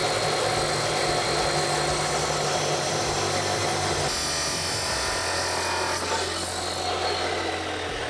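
Power saw cutting through a 409 stainless steel exhaust inlet pipe, a steady cutting noise that changes note about halfway through and drops in pitch near the end.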